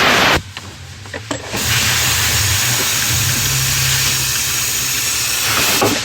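Compressed-air blow gun hissing in blasts: a short burst that cuts off just after the start, then a longer steady blast from about a second and a half in until near the end, blowing dirt and old grease out of the steering coupler.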